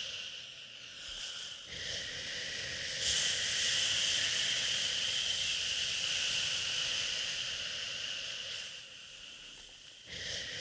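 Long, drawn-out "shhh" shushing layered over white noise, a steady hiss used to soothe a crying baby. The hiss dips briefly about a second in and again near the end, then swells back.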